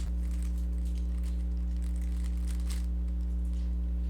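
Rubik's cube being turned quickly, its plastic layers making faint, irregular clicks and rattles over a steady electrical mains hum.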